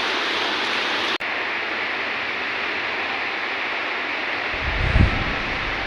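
Steady rush of water falling down a stepped indoor waterfall, with a brief break about a second in and a short low rumble near the end.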